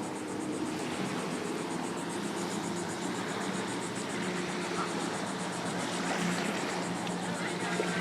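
Sea Tow towboat's engine running at high throttle with a steady drone, straining against a taut tow line to pull a stranded boat free, over wind and water noise.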